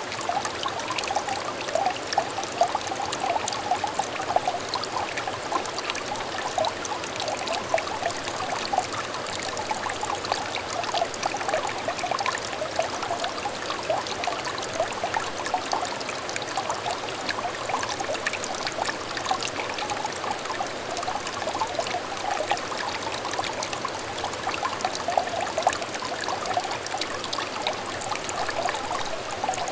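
Small clear stream trickling and babbling steadily, a continuous patter of many small water splashes.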